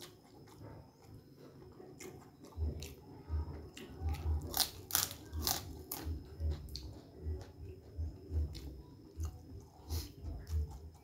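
Close-up chewing with the mouth near the microphone, about two chews a second, with sharp crisp crunches of a fried kerupuk cracker loudest around the middle.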